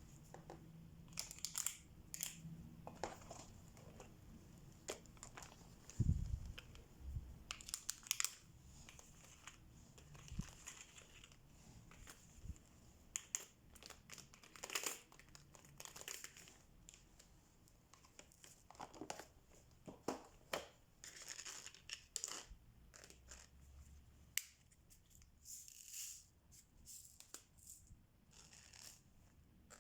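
Crinkling plastic and scattered small clicks and taps of diamond painting supplies being handled, with a single louder thump about six seconds in.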